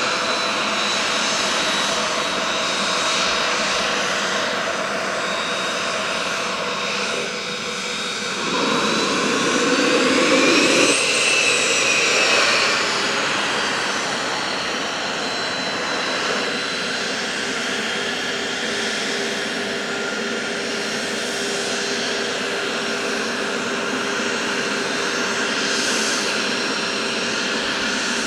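Cessna Citation CJ2's twin Williams FJ44 turbofans whining at taxi power: a steady jet whine made of several high tones. About eight seconds in it swells louder for a few seconds, with a tone that rises and then falls in pitch, then settles back to the steady whine.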